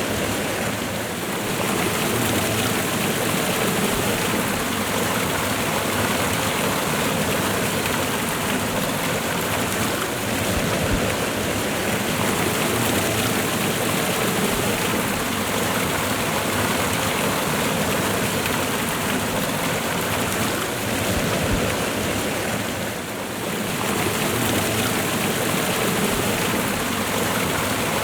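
Waterfall and running river water: a steady rushing of water, easing slightly for a moment near the end.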